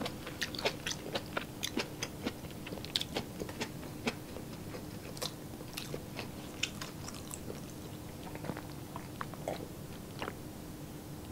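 Close-miked mouth sounds of a person chewing a mouthful of food: many short, wet clicks and smacks, coming thickly for the first half and more sparsely after.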